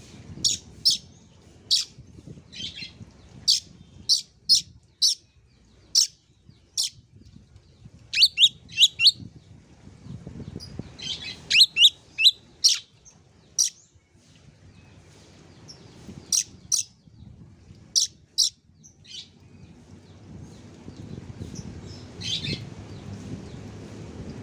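Oriental magpie-robin (kacer) calling with short, sharp, high chirps, some single and some in quick runs of falling notes around 8 and 11 seconds in. Several seconds pass between notes near the end.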